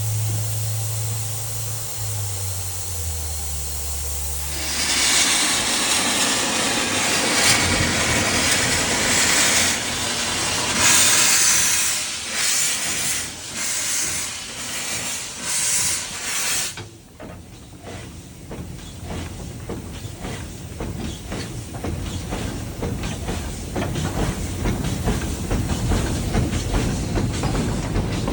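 Wood-fired steam locomotive heard from inside the cab. A low drone steps down in pitch and fades. Then steam hisses loudly for about twelve seconds, pulsing near the end, and cuts off suddenly. A rapid, even rhythm of clanks and chuffs follows and grows louder as the engine moves.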